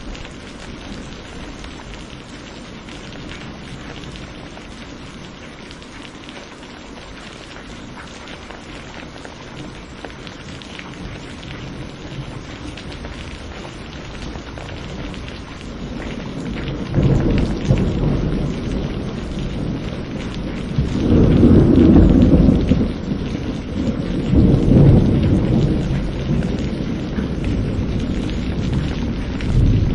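Steady rain falling in a thunderstorm. From about halfway through, thunder rumbles in, loudest a little past two-thirds of the way, with a second peak shortly after.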